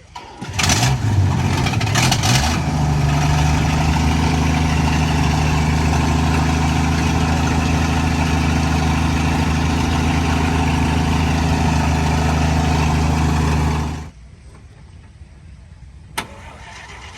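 An engine starting with a few rough strokes, then running at a steady speed with a low, even hum. It cuts off abruptly near the end, followed by a single click.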